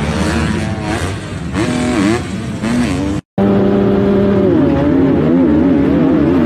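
Motocross bike engines revving, their pitch rising and falling as the throttle opens and closes. The sound cuts out completely for a split second about three seconds in, then comes back as engines held at high revs.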